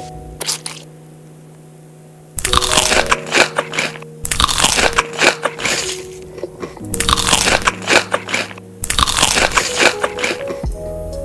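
Crunchy food being bitten and chewed close to the microphone: four spells of crisp crackling, each one to two seconds long, starting a couple of seconds in, over soft background music with held notes.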